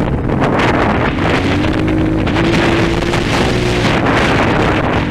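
230 cc dirt bike engine running under way, its revs rising and falling a little as it rides through slippery mud, with wind buffeting the microphone.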